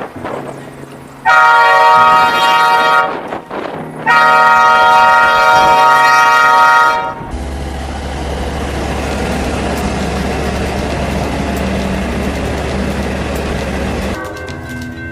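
Locomotive air horn sounding two long blasts, the first about two seconds and the second about three, then a steady rumble of the train with a low hum. The horn starts sounding again near the end.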